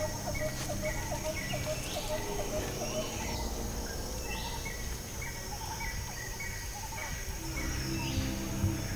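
Forest ambience with birds calling: a short low note repeated several times a second for the first few seconds, and a higher short chirp repeated about twice a second all through, over a steady low background hum.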